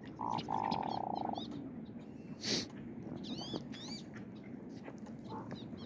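Ducks calling: a drawn-out nasal call about a second long near the start, then a few short high chirping notes around the middle. A single sharp click comes about halfway through.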